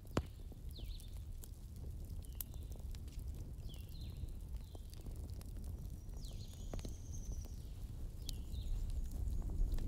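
Wood fire crackling, with scattered sharp pops over a steady low rumble, while small birds give short high chirps about once a second.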